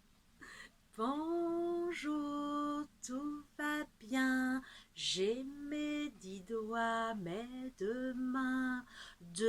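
A woman's voice singing a simple tune in short phrases of held notes, with short pauses between the phrases.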